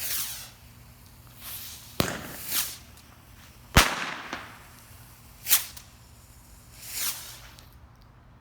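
Small consumer fireworks going off: several brief hissing whooshes, the first falling in pitch, and two sharp bangs about two seconds in and just before four seconds, the second the loudest.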